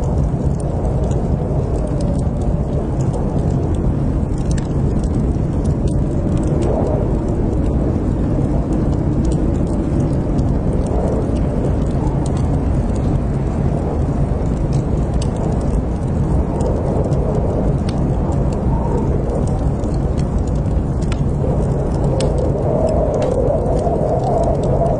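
Wood fire crackling steadily: scattered sharp pops and ticks over a low, even rumble.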